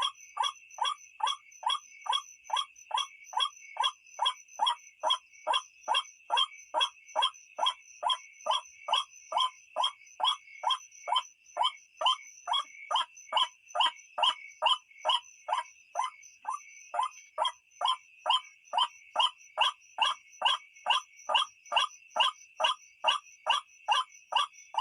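White-breasted waterhen (ruak-ruak) calling: a rapid, even series of harsh croaking notes, about two a second, with no break. This is the call that is played as a night lure for the bird. A steady high tone runs underneath.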